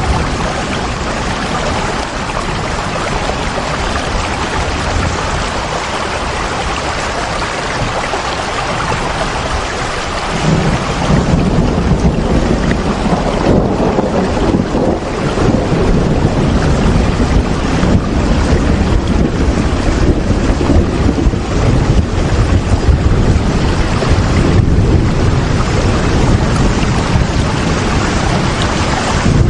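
Steady heavy rain, an even hiss with no breaks. About ten seconds in, the sound grows louder and deeper and stays that way.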